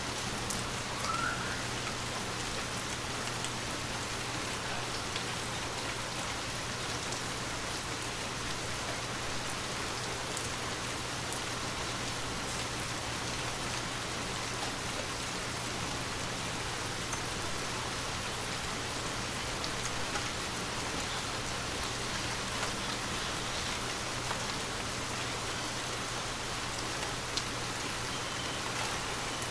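Steady rain falling, an even hiss with scattered faint drip ticks, over a faint low hum.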